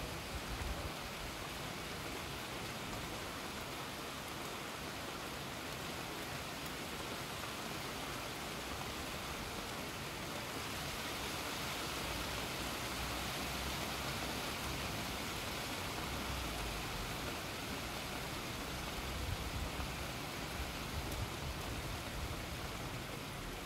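Steady rain falling outside a window onto foliage and a wet ledge. It is a little heavier through the middle.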